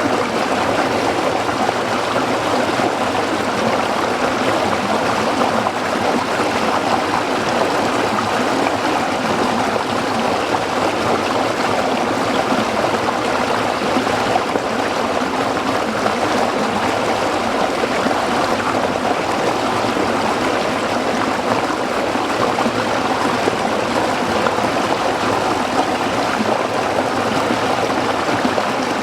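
Small stream flowing and burbling over rocks, steady and unbroken.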